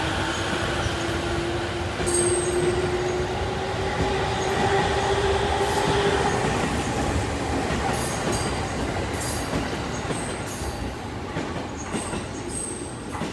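E231 series electric train pulling away: its inverter and traction motors whine, rising slowly in pitch as it gathers speed, while the wheels run over the rails. From about the middle on come short high wheel squeals and clicks, the loudest about eight seconds in.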